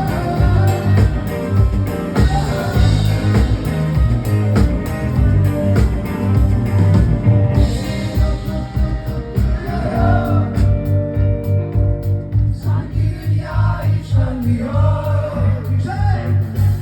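Live rock band music with a steady drum and bass beat. About twelve seconds in, the cymbals drop out and singing comes forward.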